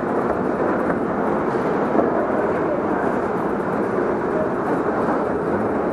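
Steady, loud rushing background noise with no distinct shots, broken only by a couple of faint clicks.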